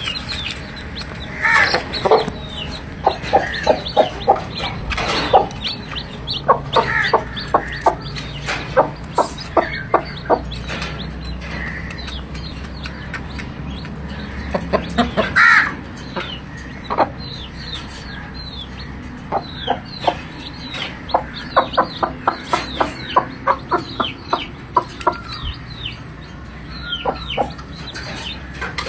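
Aseel chickens clucking in quick runs of several clucks, mixed with high, falling chick peeps, and one louder, longer call about halfway.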